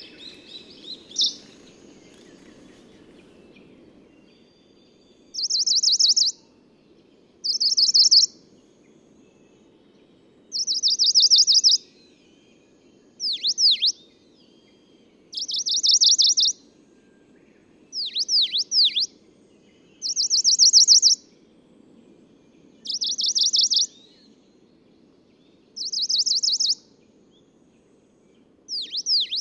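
A male Tokara Leaf Warbler (Phylloscopus tokaraensis) singing. It gives short high song phrases every two to three seconds, most of them fast trills about a second long. A few are instead made of sharp whistled notes that swoop down and up.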